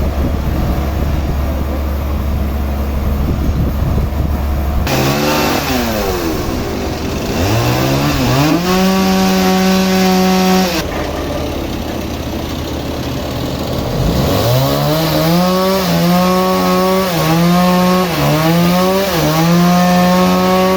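Small engine-driven saw running: a steady low hum, then revved up twice and held at high speed, its pitch dipping and recovering repeatedly during the second run as it takes load.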